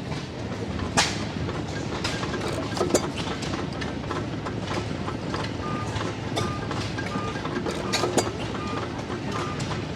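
The din of many old engines running at once: a steady low rumble with scattered clicks and knocks, and a sharp bang about a second in. From about six seconds in, a short high beep repeats about twice a second.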